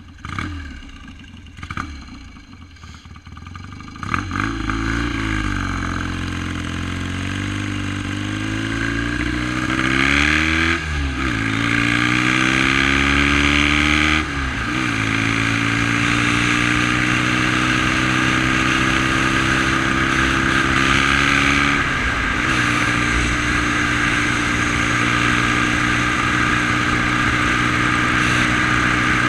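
1971 BSA Lightning's 650 cc parallel-twin engine catching about four seconds in after a few knocks. Its revs rise and dip several times, then it settles into a steady fast idle.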